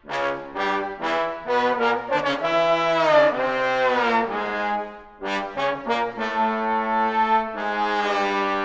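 A trombone ensemble playing in harmony: short accented chords, then sliding notes about two and a half seconds in, and a sustained chord held through the last few seconds.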